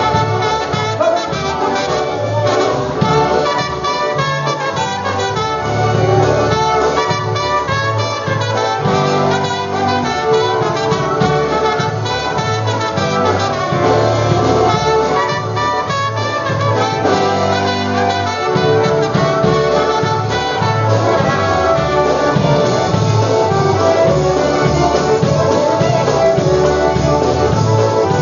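Polka band playing an instrumental passage, with brass carrying the tune over a steady, regular bass beat.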